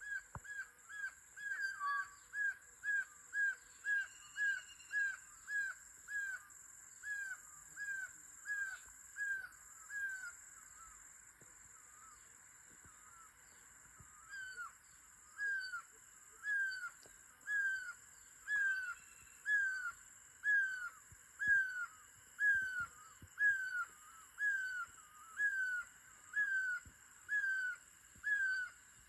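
A bird calling one short, clear note with a quick downward hook, repeated about twice a second in a long series, with a pause of a few seconds in the middle. A steady high-pitched hiss runs underneath.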